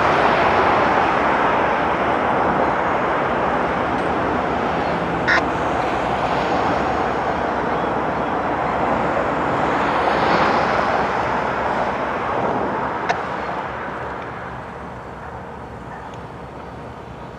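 Freight train rolling past: a steady rush of wheel-on-rail noise with two sharp clanks, fading away over the last few seconds.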